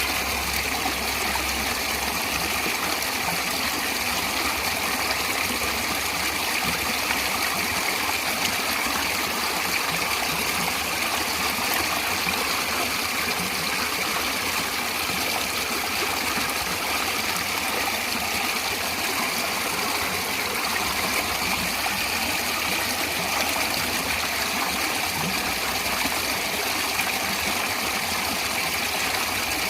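Natural running water of a stream flowing steadily, an even unbroken rushing.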